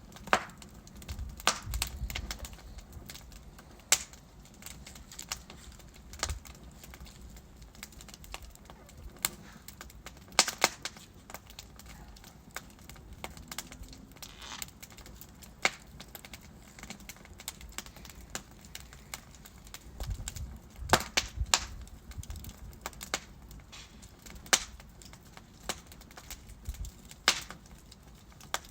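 Wood fire burning in a fireplace: logs crackling and popping at irregular intervals over a low steady rumble of the flames, with the sharpest pops about a second in, around 10 seconds and around 21 seconds.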